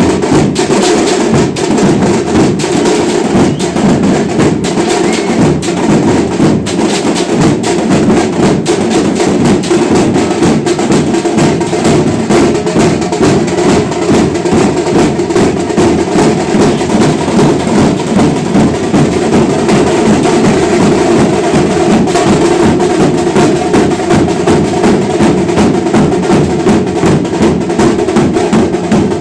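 Loud, fast drumming: a dense, unbroken stream of rapid hand-drum strokes.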